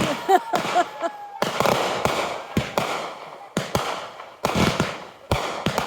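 Consumer fireworks finale: many sharp bangs in quick, uneven succession, with crackling between them.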